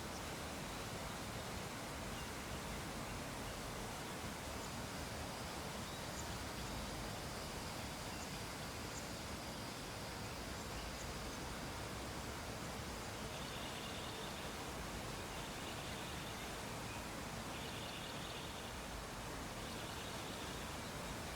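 Steady background hiss. In the second half, short high buzzing chirps come in bursts about every two seconds.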